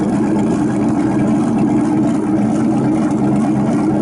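Motorboat engine running steadily at low revs close by, an even low hum that doesn't rise or fall.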